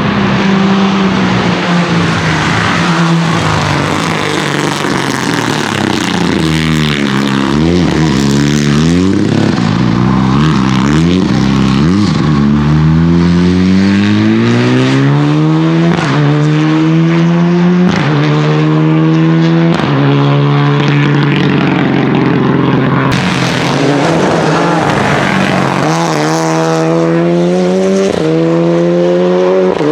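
Renault Clio Rally4's turbocharged four-cylinder engine at full rally pace: revs fall and rise several times under braking and corner exits, then climb again and again as the car accelerates hard through the gears.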